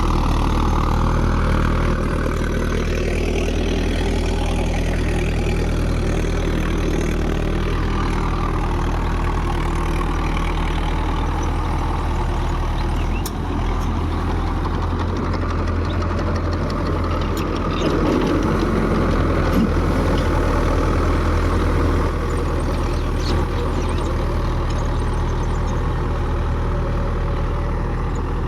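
Mahindra 4WD tractor's diesel engine running steadily under load while driving a 6-foot, 42-blade Mahindra Supervator rotavator in medium gear 1.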